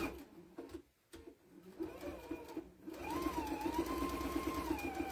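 Juki sewing machine stitching through a quilted potholder: a few slow stitches, then from about three seconds in a steady fast run of needle strokes over a motor whine that wavers slightly in pitch.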